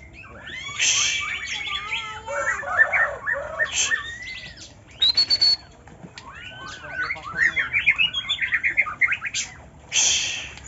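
White-rumped shama and oriental magpie-robin singing: quick runs of varied whistled notes and glides, broken by a few short harsh rasping bursts.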